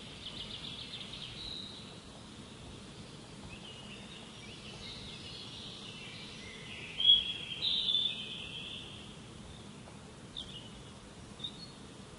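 Songbirds singing, with chirps and short trills throughout and a louder burst of rapid song about seven seconds in, over a steady low background hiss.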